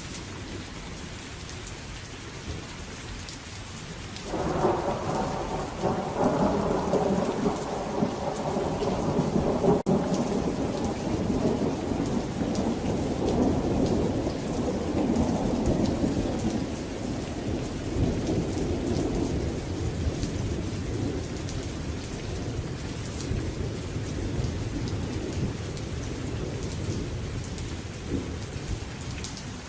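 Steady rain with a thunderclap about four seconds in, whose low rumble rolls on and slowly dies away over the following twenty seconds.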